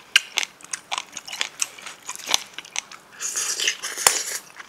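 Close-miked chewing of agujjim, spicy braised monkfish with bean sprouts: many short, wet mouth clicks. About three seconds in comes a longer slurp as a mouthful of bean sprouts is sucked in from the chopsticks.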